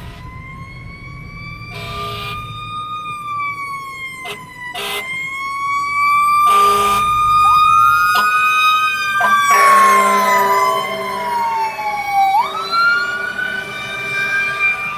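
Sirens of a fire engine and a rescue unit responding code 3, wailing and rising and falling in pitch, with a second siren sweeping separately from about halfway through. Several short horn blasts cut in, at about 2, 4.5, 7 and 10 seconds.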